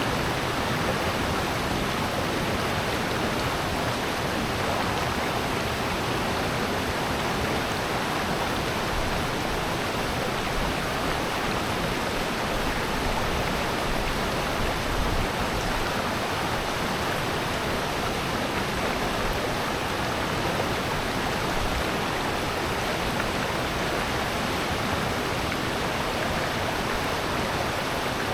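Water rushing steadily over rocks in a mountain gorge stream and waterfall, an even, unbroken wash of noise.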